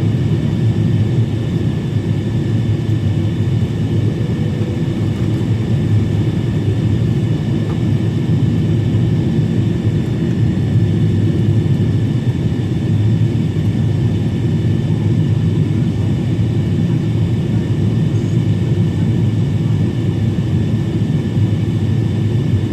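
Steady cabin noise inside a Boeing 777-300 airliner descending toward landing: a constant engine and airflow rumble with a faint steady high whine on top.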